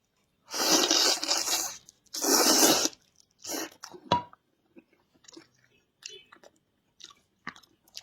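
Close-miked eating of spicy sheep trotters: two loud crunching chews in the first three seconds, then quieter, shorter chewing and mouth sounds.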